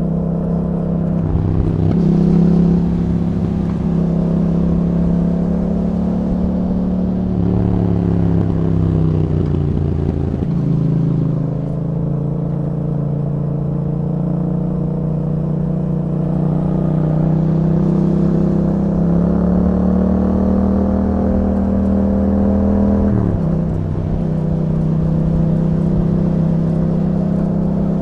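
2021 Yamaha MT-07's 689 cc parallel-twin engine running through an Akrapovic exhaust with a dB killer, heard while riding. The engine note holds fairly steady, falls in pitch about ten seconds in, then climbs again. Near the end it dips sharply and recovers at once.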